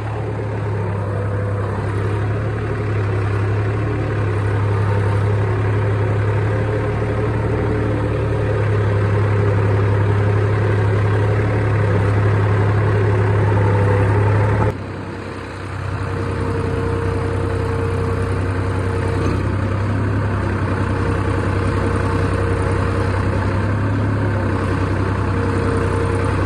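Diesel engine of the tractor and loader running steadily while the trolley is loaded, with a short dip in level about fifteen seconds in before it carries on.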